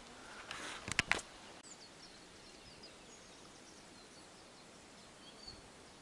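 Faint, high, short bird chirps scattered over a quiet outdoor background, with a brief rustle and two sharp clicks about a second in.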